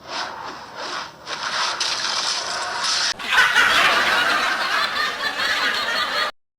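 Laughter, dense and noisy, cutting off suddenly about six seconds in.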